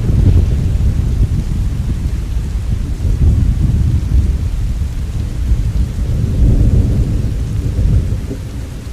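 Rolling thunder over steady rain: a long, deep rumble that swells twice and eases off near the end.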